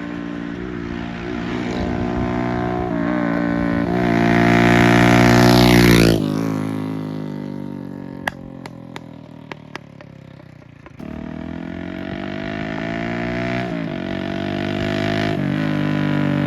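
Hero Passion Plus motorcycle's single-cylinder four-stroke engine accelerating through the gears as it rides by. Its pitch climbs in steps and grows louder, then drops suddenly about six seconds in and fades as it moves away. A few sharp clicks sound near the middle, and from about eleven seconds the engine comes back, rising in pitch and getting louder.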